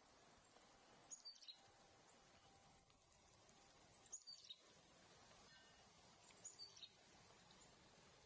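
A songbird faintly singing the same short phrase of high, falling notes three times, every two and a half seconds or so, over a steady soft hiss.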